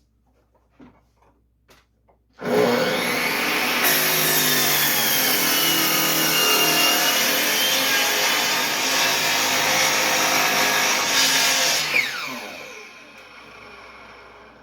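Electric power saw cutting a BC fir board to length. The saw starts abruptly about two and a half seconds in and runs loud and steady through the cut for about nine seconds. It then winds down with a falling whine as the blade spins to a stop.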